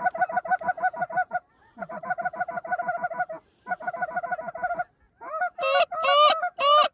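Goose clucking and honking: three quick runs of short, rapid clucks, about seven or eight a second, then louder, longer honks that rise and fall, starting about five seconds in.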